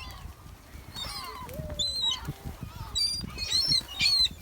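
A flock of birds calling with short, high squawks, coming more often and louder in the second half.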